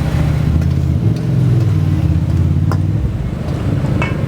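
A motor vehicle's engine running close by, a loud low drone that shifts slightly in pitch. A few short sharp clicks sound over it.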